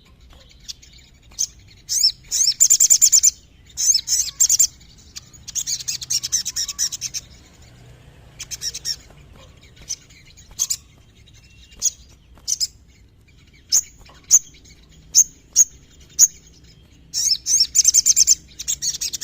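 Sogon sunbird singing: high, sharp single chips between fast, rattling trills. The three longest trills come about 3 seconds in, about 6 seconds in, and near the end.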